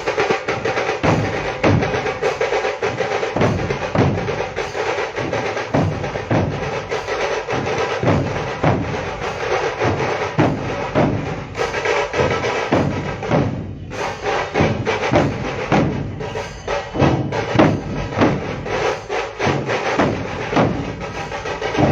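Percussion music driven by drums: a dense run of rapid drum strokes over deep, regular bass beats.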